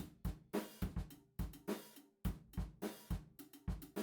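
Background music: a steady drum-kit beat with kick, snare and hi-hat hits.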